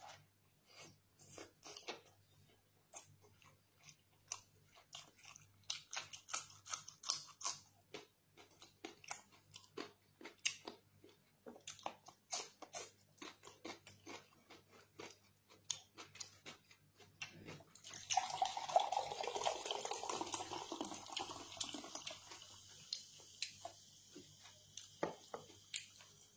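Close-miked chewing, biting and wet mouth sounds from eating chicken drumstick curry with rice: many sharp, irregular clicks and smacks. About two-thirds of the way through, a louder steady rushing noise takes over for several seconds and fades near the end.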